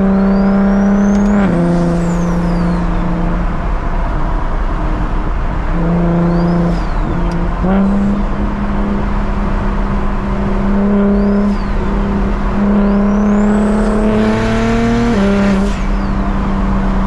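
The single-turbo BMW 335is's N54 inline-six running steadily under way, its note dropping in pitch about one and a half seconds in and again near the end. A high whistle, the turbo spooling, rises and falls several times.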